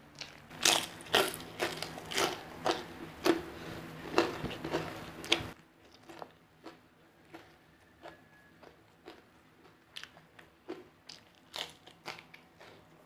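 Close-miked crunching and chewing of crisp food in a person's mouth. Loud bites come about twice a second for the first five seconds or so, then the chewing turns quieter and softer, with small scattered clicks.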